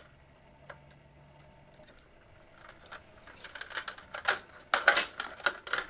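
Hands working the wiring of a fluorescent shop-light fixture: a run of small clicks and rattles that starts about three seconds in and gets busier and louder near the end.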